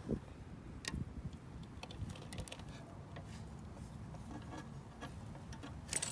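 Faint, scattered clicks of a fence wire ratchet tensioner being cranked to tighten a brace wire, with a quicker run of clicks right at the end.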